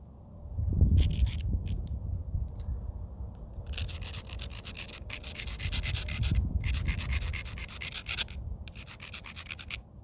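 A stone abrader scraped back and forth along the edge of a knapped stone preform in about four long, gritty strokes, grinding the edge to set up striking platforms. Low handling rumbles come in between the strokes.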